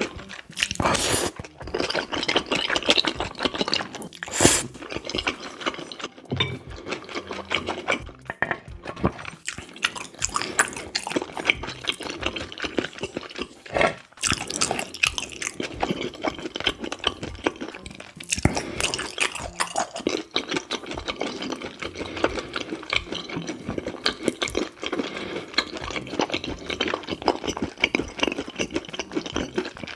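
Close-miked wet chewing, smacking and slurping of raw beef yukhoe and cold spicy mixed noodles, a dense run of short sharp mouth clicks.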